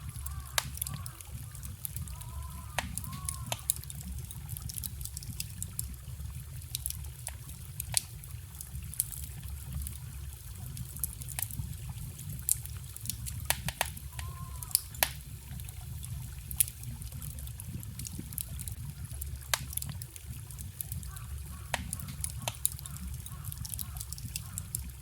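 Wood fire crackling with sharp irregular pops over the steady low rush of a small forest stream, with a few brief gurgling notes from the water.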